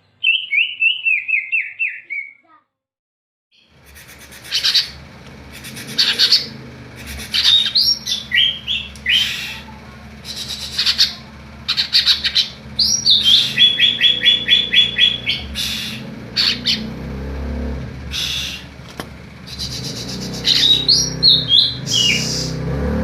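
Greater green leafbird (cucak ijo) singing: a falling trill, then after a short break, loud whistled phrases, sharp notes and fast runs of repeated notes over a steady low hum.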